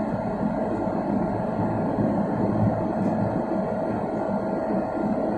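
Airliner cabin noise in flight: the steady rumble and rush of the jet engines and airflow, with a thin steady tone running through it.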